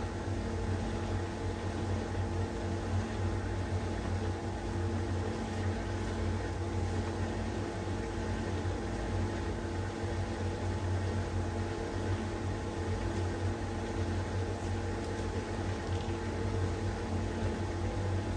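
LG heat pump tumble dryer running steadily in its cool-down stage: an even machine hum with a few held tones over a faint hiss.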